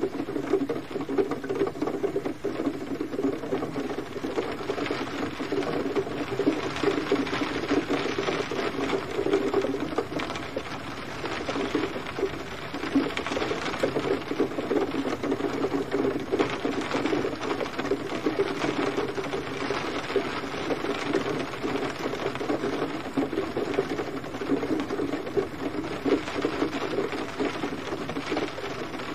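Steady gentle rain: a dense, even pattering of many drops on a surface.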